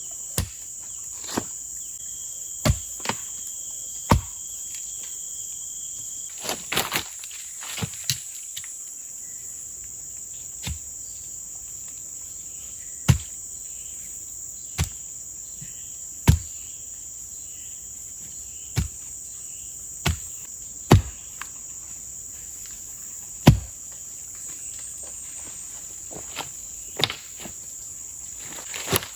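Steady high-pitched drone of forest insects, with sharp knocks at irregular intervals of one to three seconds, like blows on wood.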